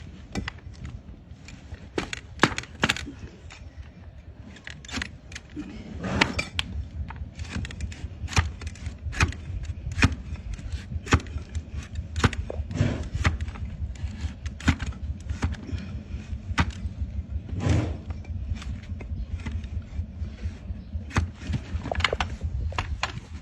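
A donkey's hoof being trimmed: a string of sharp, crisp cuts as a cutting tool bites through the hard hoof horn. The cuts come irregularly, about one or two a second, some louder than others, over a steady low rumble.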